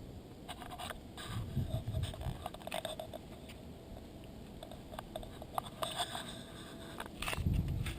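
Footsteps crunching and scraping along a hiking trail, several uneven steps with crackles and dull thuds.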